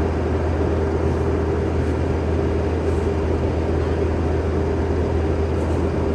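Skid steer engine running steadily at a constant speed, with a low hum and a steady mid-pitched tone.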